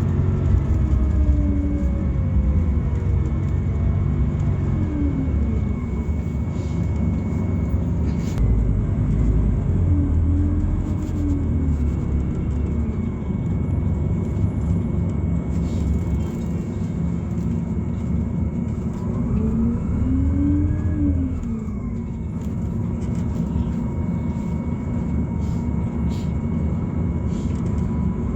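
Inside the cabin of a Scania Citywide LFA natural-gas city bus under way: the Scania OC09 9-litre five-cylinder gas engine and ZF automatic gearbox run with a steady low rumble. A drivetrain whine rises and falls in pitch three times as the bus speeds up and slows down.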